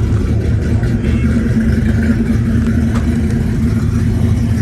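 A vehicle engine running steadily, a low rumble with a hum that grows stronger about a second and a half in.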